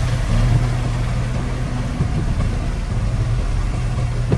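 Heavy-equipment diesel engine running steadily at an even pitch, with one short knock near the end.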